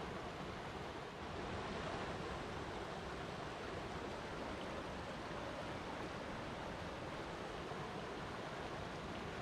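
Flowing water rushing steadily, an even watery hiss without a break.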